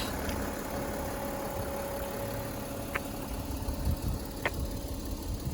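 Audi 3.0-litre V6 turbodiesel idling steadily, with two short clicks about three and four and a half seconds in.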